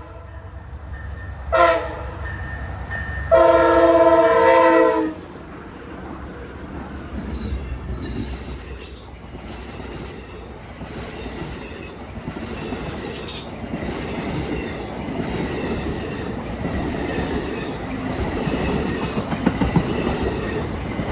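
Amtrak Silver Meteor led by a Siemens ALC-42 Charger locomotive: the chord horn gives a short blast, then a long one, as the crossing signal ends. Then the train's cars roll past at reduced speed, their wheels clacking over the rail joints and the rumble slowly building.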